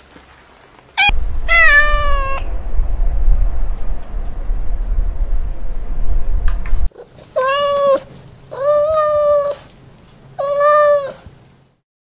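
Kitten meowing: a high meow about a second in, over a low rumbling noise that lasts for several seconds, then three more meows in a row, each about a second long.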